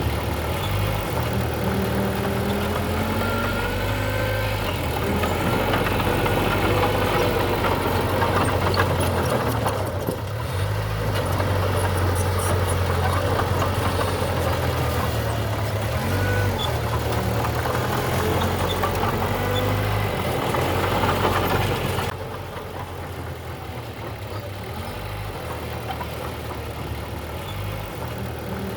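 Diesel engine of heavy earthmoving machinery running, its note stepping up and down as it works. About 22 s in the sound drops abruptly to a quieter, duller level.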